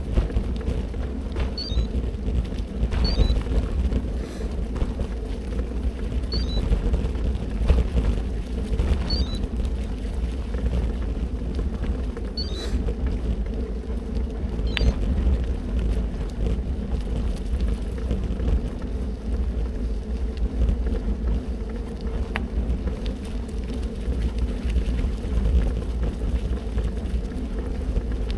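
Bicycle riding over a bumpy gravel track bed: steady rumble of tyres and wind on the microphone, with a few short high chirps every couple of seconds in the first half.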